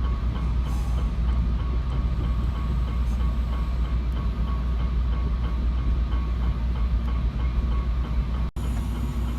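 Steady low rumble of a moving Trinity Railway Express commuter train heard from inside the passenger car, with a faint steady whine and light rhythmic ticking. The sound briefly drops out near the end.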